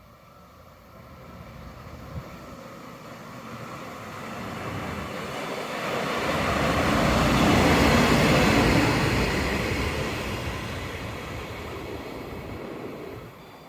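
A train passing along the track: its running noise builds over several seconds, is loudest about eight seconds in, then fades away.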